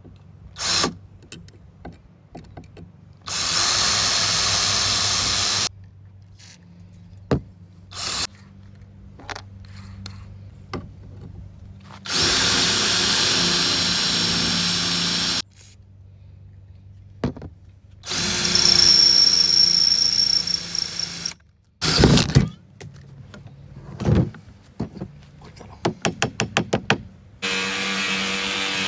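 Electric drill boring into a steel bracket in four runs of a few seconds each, with knocks between them and a quick string of clicks shortly before the last run.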